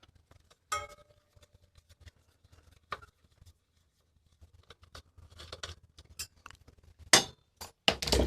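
Small metal bike parts and hand tools clinking and clicking as they are handled, with one ringing metallic clink about a second in and louder knocks near the end.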